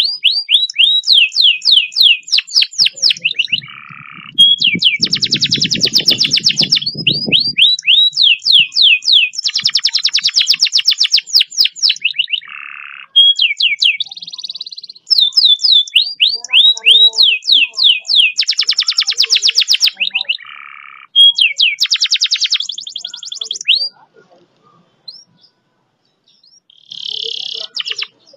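Domestic canary singing long, fast rolls: runs of rapid, evenly repeated sweeping notes alternating with dense buzzy trills, as in a canary master song. A low rumble sits under the song about five seconds in. The song breaks off about 24 seconds in, with one short burst near the end.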